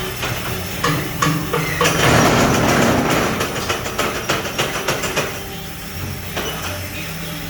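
RH1S12 paving block press machine running: a steady motor hum under rapid metal clanks and knocks, with a louder rushing noise about two seconds in that lasts over a second.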